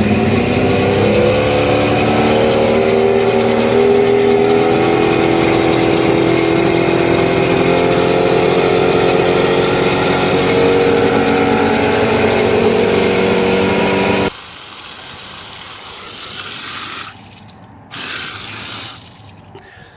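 A 125 hp Force two-stroke outboard motor running steadily just after starting. About fourteen seconds in it is shut off abruptly, leaving a much fainter hiss with a few brief noises.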